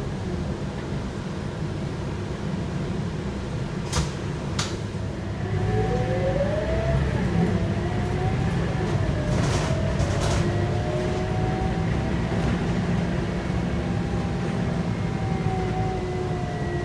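Scania K230UB bus's five-cylinder 8.9-litre DC9 diesel engine heard from on board, running steadily. Two sharp clicks come about four seconds in. From about five and a half seconds it gets louder as the bus accelerates, with a whine that rises, dips and rises again in pitch.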